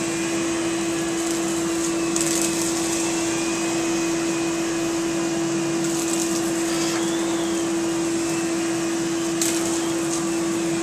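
Central vacuum running with a power nozzle attached: a steady hum over a rush of air, with a few brief clicks and rattles from the nozzle.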